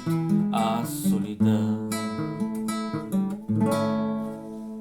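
Acoustic guitar strumming the song's closing chords; the last chord, struck about three and a half seconds in, rings on and slowly fades.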